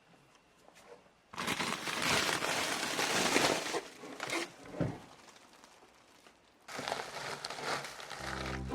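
Rustling and crinkling of material being handled, in two spells: one starting about a second in and lasting a couple of seconds, another near the end. A few small clicks fall between them, and plucked-string music comes in at the very end.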